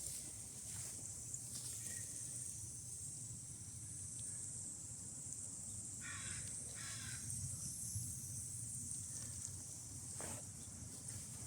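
Two short caw-like bird calls about six seconds in, a second apart, over a steady high hiss and low rumble.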